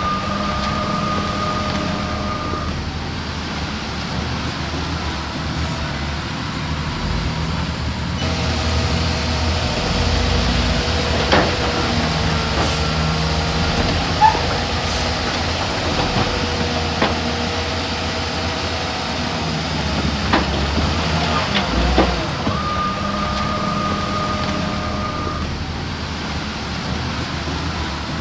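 Heavy diesel engine of a crawler bulldozer running steadily at work, with several sharp metal clanks. A steady high tone sounds for a few seconds near the start and again near the end.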